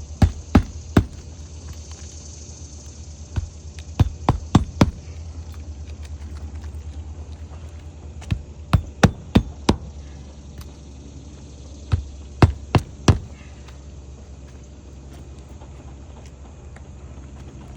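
Roofing nails being hammered through a 3-tab asphalt shingle: four bursts of three to five quick sharp strikes, each burst driving a nail home, over a low steady hum.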